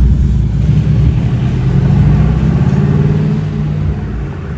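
Mercedes-AMG GT R's twin-turbo V8 running loud and steady, slowly fading toward the end.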